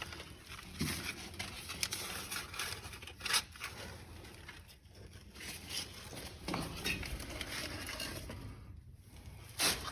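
Firewood and paper crackling as they catch in a newly lit fireplace on its first firing, with irregular snaps and pops; a louder snap comes about three seconds in and another near the end.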